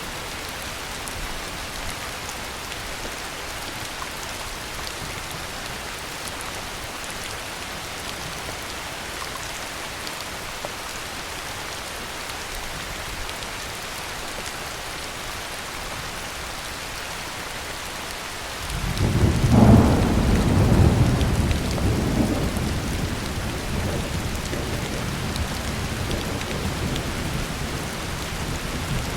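Heavy rain falling steadily. About two thirds of the way through, a deep roll of thunder breaks in suddenly, peaks over a few seconds and rumbles on as it slowly fades under the rain.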